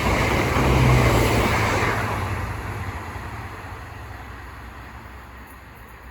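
Southern Class 171 Turbostar diesel multiple unit passing through at speed, with a low engine hum over wheel and rail noise. It is loudest in the first two seconds, then fades steadily as the train moves away.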